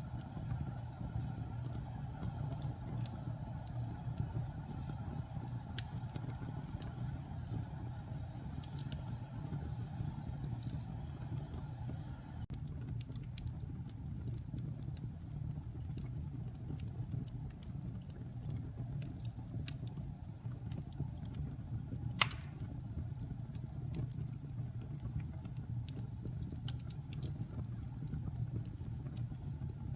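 Wood fire in a fireplace crackling: scattered small pops and snaps over a steady low rumble, with one sharp, loud pop about two-thirds of the way through.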